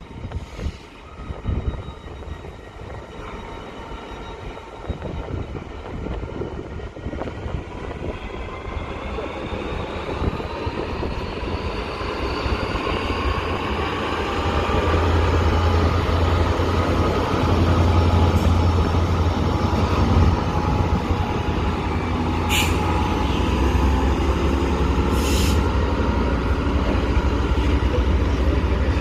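GB Railfreight Class 66 diesel locomotive, with its EMD two-stroke diesel engine, hauling a container freight train through the station: the engine grows steadily louder over the first half, its note rising, then stays loud with a deep hum as the locomotive and its container wagons roll past. Two short, sharp high-pitched sounds come near the end.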